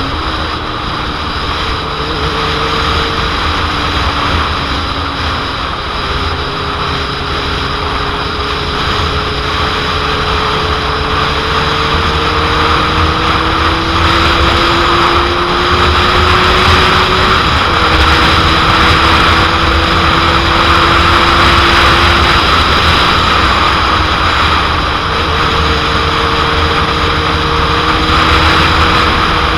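Heavy wind noise buffeting the microphone over a 2001 Suzuki GSX-R750's inline-four engine running under way at speed. The engine note climbs slowly and drops suddenly twice, about six seconds and seventeen seconds in.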